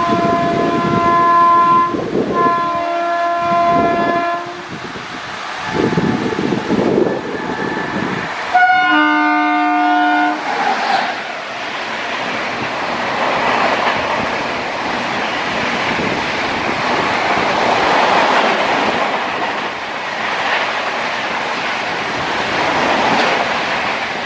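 WAP-7 electric locomotive horn sounding two blasts as the train approaches, then a third blast about nine seconds in. After that the train's coaches rush past at speed, giving a loud continuous rumble of wheels and air that lasts to the end.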